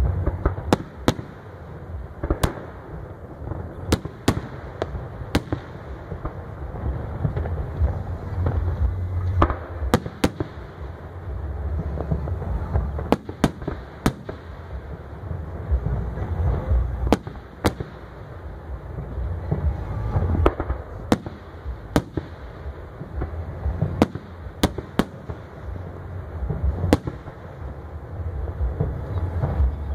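Aerial fireworks shells bursting in an irregular string of sharp bangs, roughly one a second, over a deep rolling rumble of booms.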